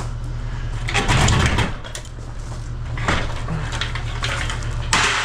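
Caterpillar 306 mini excavator's diesel engine running steadily while the machine breaks into a mobile home. There are bursts of crunching and cracking from the structure: a loud one about a second in, a short one around three seconds, and another near the end.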